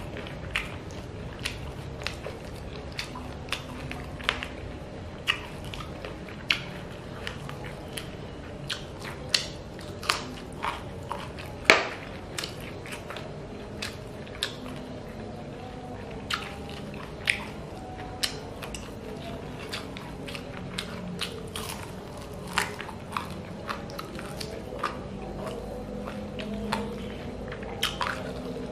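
Close-up mouth sounds of eating chicken feet in red chili sauce: chewing and biting with frequent sharp clicks and smacks at an irregular pace, one louder crack about twelve seconds in. A low steady hum runs underneath.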